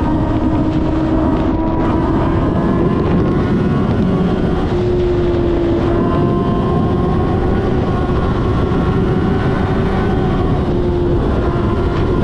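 Motorcycle engine running at a steady, slowly rising pitch under a strong rush of wind noise.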